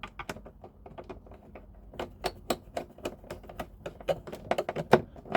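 Screwdriver tightening the screw on a terminal that clamps a green ground wire, making a quick, irregular run of small clicks, with one sharper click about five seconds in.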